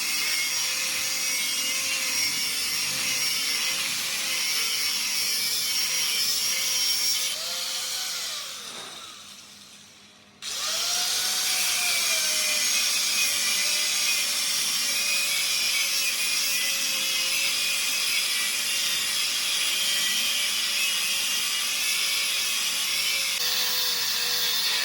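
Power tool grinding on metal: a steady, loud hissing grind that dies away about eight seconds in and starts again suddenly a couple of seconds later.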